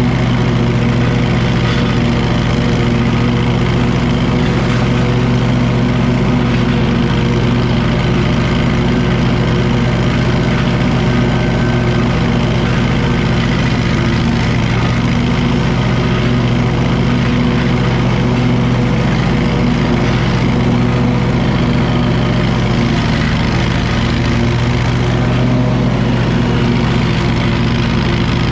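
Wright commercial lawn mower's engine running at a steady speed, a constant loud drone with no change in pitch.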